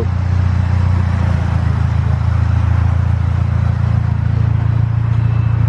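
A car engine idling steadily: an even low hum with no revving.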